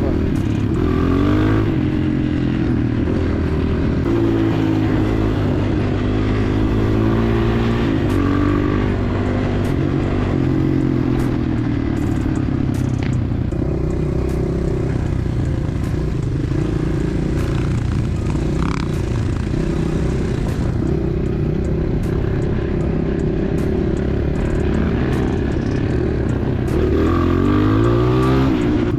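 Enduro pit bike engine running under load, its pitch climbing and dropping as the throttle opens and closes through gear changes, with sharp rises at the start and again near the end. Scattered short clicks and knocks over the engine.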